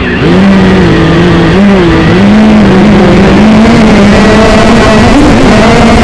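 TBS Gemini hexacopter's brushless motors and propellers running loud and close, a buzzing whine whose pitch wavers up and down with the throttle.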